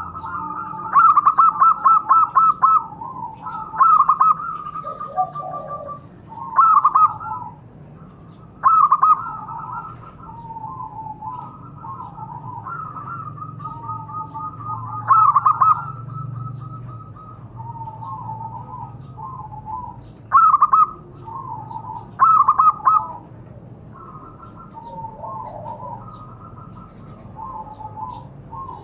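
Zebra doves (perkutut) cooing. Loud bouts of rapid, trilled staccato coos come every few seconds, with softer overlapping calls between them, as more than one bird calls.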